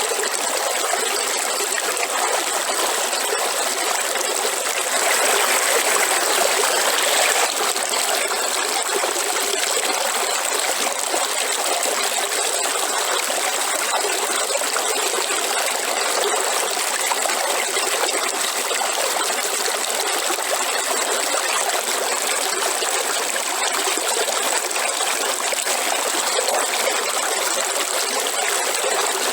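Waterfall: a steady rush of falling water, briefly a little louder a few seconds in.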